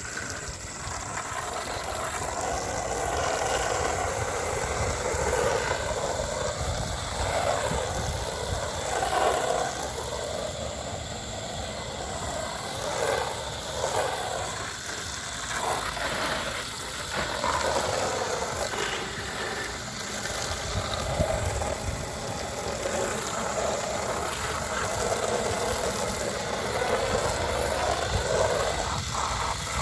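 Pressure washer running steadily while spraying water against vinyl siding: a constant motor hum under a hissing, splashing spray that swells and fades as the jet moves across the wall.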